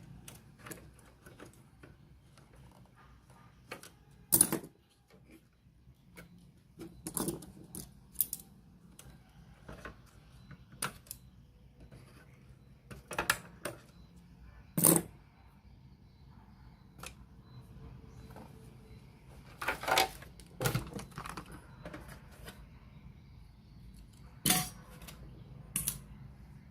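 Irregular clicks and clatters of small hard objects being handled, such as tools and small parts during the repair, over a faint low hum. The sharpest knocks come about four and a half seconds in, around fifteen seconds, in a cluster near twenty seconds and again near twenty-five seconds.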